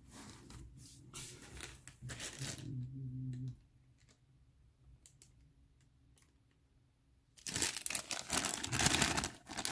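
Plastic bags crinkling and rustling as bagged miniatures are handled and opened, with a quiet pause of about four seconds in the middle and the loudest rustling near the end.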